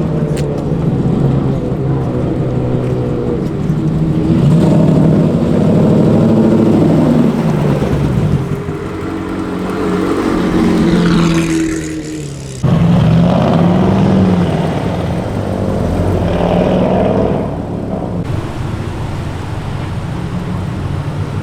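Car engines running and revving, their pitch rising and falling as modified cars move off and drive past. The sound breaks off abruptly twice, about twelve and eighteen seconds in.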